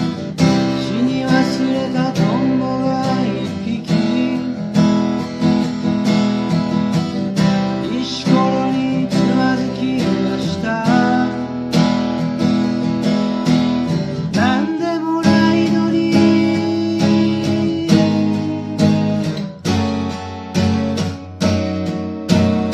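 Martin D-76 steel-string acoustic guitar strummed in a steady rhythm of chords.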